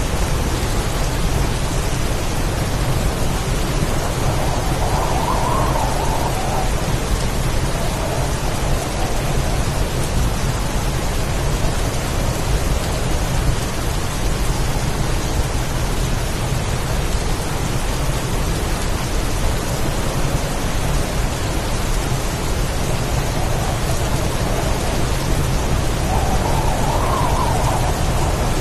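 Heavy rainstorm: dense rain pouring steadily over a deep, continuous low rumble of thunder, with a couple of brief swells in the noise.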